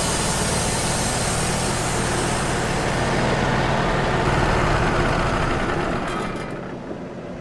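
Wood-Mizer LT35 portable sawmill running, its engine and band blade sawing through a pin oak log in a loud, steady noise, which thins and fades over the last second or so.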